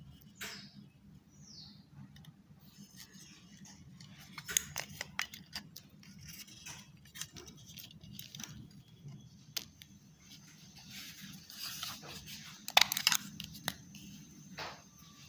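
Scattered light clicks, taps and scrapes of small hard objects being handled, with a louder run of clicks about thirteen seconds in.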